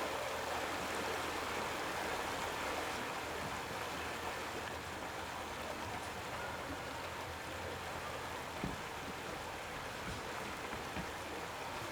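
Steady rushing hiss of rain-like noise, with a couple of faint knocks about two-thirds of the way in.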